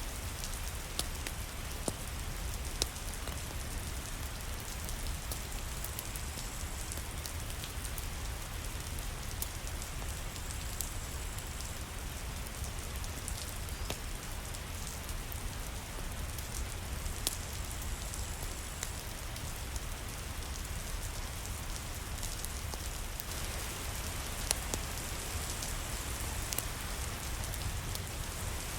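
Steady rain falling on a surface, an even hiss with a low rumble beneath it, dotted with scattered sharp clicks of single drops.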